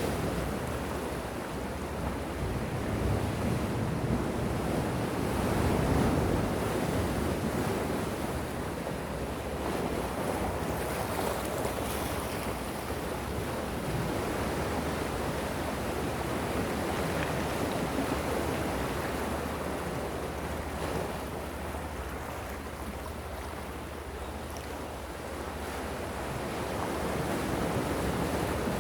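Gentle ocean waves washing ashore: a steady surf that swells and eases slowly, louder about six seconds in and again near the end.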